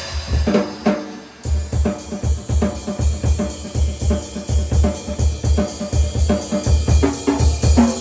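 Drum kit being played as a warm-up: a few scattered tom and snare strokes, a short lull, then from about one and a half seconds in a steady groove of bass drum, snare and cymbals.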